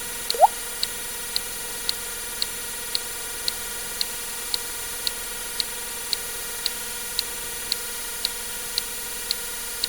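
Short, sharp counting ticks about twice a second over a steady hiss, with one short rising water-drip 'plip' sound effect about half a second in.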